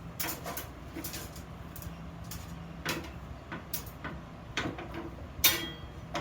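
Irregular knocks and clinks of steel workpieces being handled and set down, with two sharper strikes about three and five and a half seconds in, over a steady low hum.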